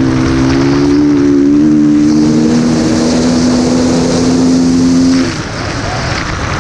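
Dirt bike engine held at high revs under throttle, a steady note that climbs slightly; about five seconds in the throttle is shut off and the engine note drops away, leaving rushing wind noise.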